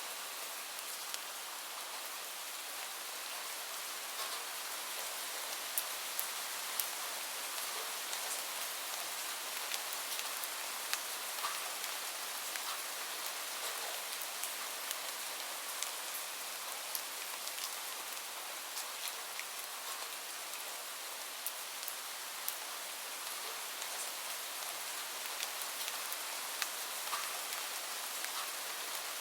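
Steady rain falling, a constant hiss with many individual drops ticking sharply throughout.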